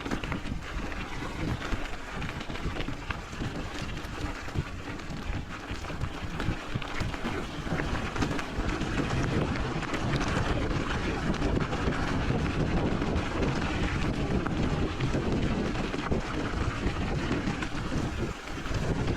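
Wind buffeting the microphone of a camera on a moving bicycle, with a steady rumble that grows louder about halfway through.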